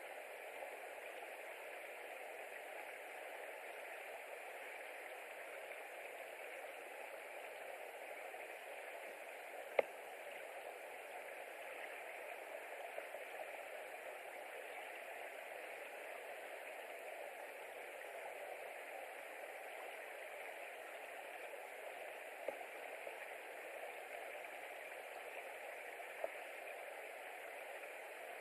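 Steady hiss from an outdoor nest-camera microphone, with one sharp click about ten seconds in and two fainter clicks later on.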